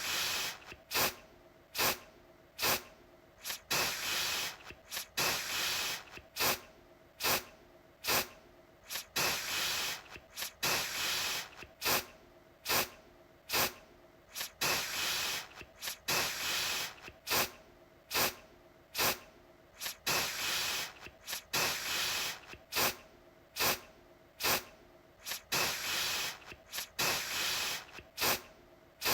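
Aerosol deodorant can spraying in repeated bursts, about one or two a second. Quick puffs alternate with longer hissing sprays of up to about a second.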